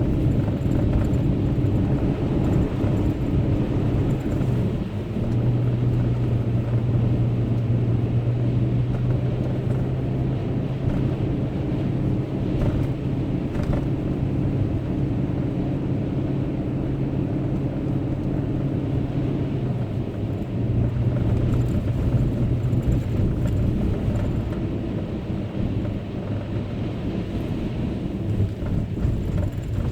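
A truck's engine and tyres, heard from inside the cab while it drives slowly on a snowpacked road: a steady engine drone over road rumble. The engine note strengthens about five seconds in and eases back about twenty seconds in.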